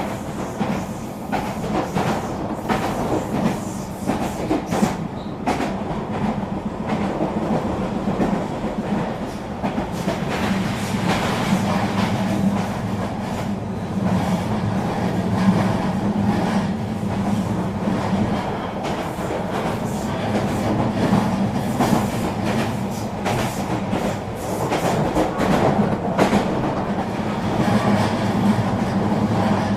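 Eurobahn RE3 regional train running at speed, heard from inside the carriage: a steady rumble of wheels on rail with a constant low hum, and frequent irregular clicks from the track.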